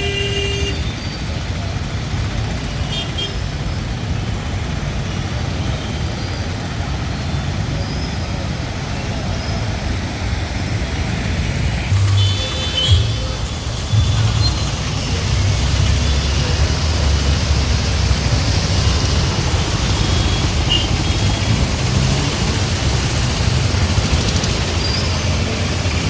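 Street traffic running steadily: vehicle engines and tyre noise, with short horn toots about halfway through.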